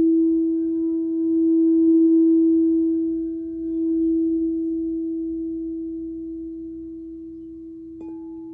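A singing bowl ringing with one steady, pure tone that swells and fades slowly. Near the end a second, higher-pitched bowl is struck and rings on over the first.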